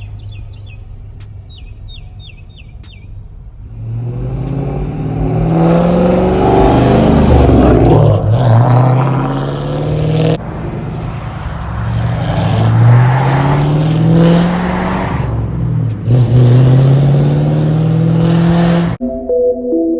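Twin-turbo 5.0 V8 Ford Mustang running steadily, then pulling hard at full throttle about four seconds in. Its engine pitch climbs and drops sharply at each gear change, about three times, before cutting off abruptly near the end.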